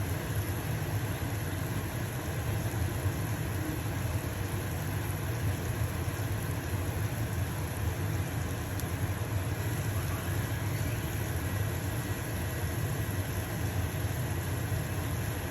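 Stove-top range hood fan running with a steady low drone, over the even hiss of a pancake sizzling in a frying pan.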